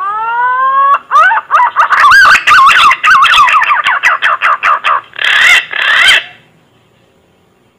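Punai (green pigeon) lure call: one rising whistled note, then a fast run of wavering, warbling whistles and two louder closing notes, ending about six seconds in.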